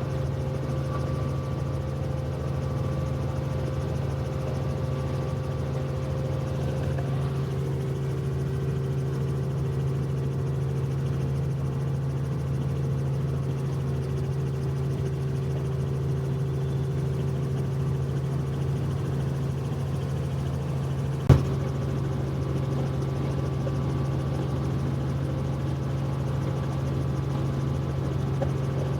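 Helicopter engine and rotor running in a steady, even drone with a deep hum. One sharp click is heard about two-thirds of the way through.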